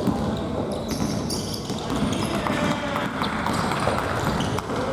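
Futsal game play on a gym court: a futsal ball being kicked and bouncing on the hard floor, giving several sharp thuds over a continuous din of play in an echoing hall.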